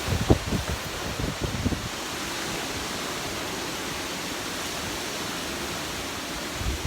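Hurricane wind and rain making a steady rushing noise, with gusts buffeting the microphone in a few low thumps during the first two seconds.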